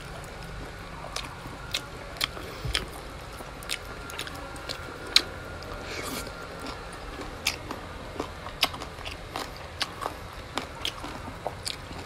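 Close-up chewing and biting of grilled pork ribs, with sharp mouth clicks and smacks at irregular intervals.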